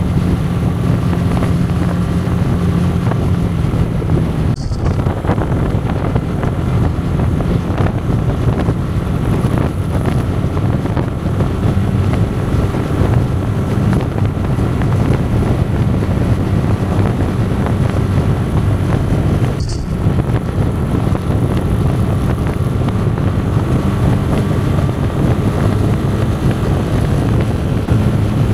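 Yamaha Fazer 250's single-cylinder engine running steadily at cruising speed, with wind buffeting the microphone. The engine sound drops out briefly twice, about 5 and 20 seconds in.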